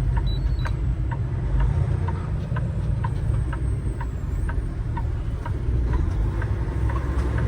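Semi truck's engine running, heard inside the cab as a steady low rumble, with the turn signal clicking about twice a second for a right turn.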